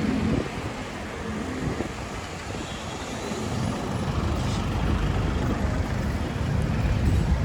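City street traffic: motor vehicles running close by with a low engine rumble, the noise swelling toward the end as a vehicle draws nearer.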